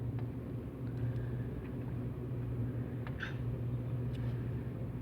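Steady low rumble of an automatic car wash, heard from inside the car's cabin, with a brief faint higher sound about three seconds in.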